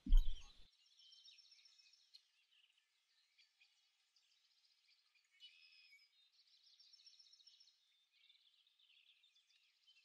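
Very faint birdsong, a busy run of high chirps and trills. A brief low sound dies away in the first half-second.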